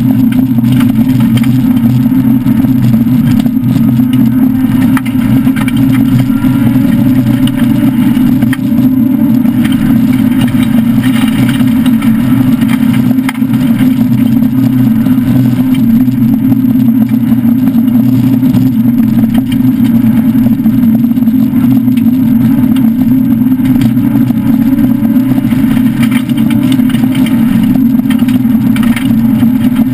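Citroën SM Bandama rally car's Maserati V6 engine running hard at high, fairly steady revs, heard loud from inside the stripped cabin, with a constant hiss of tyre and road noise from the dirt track.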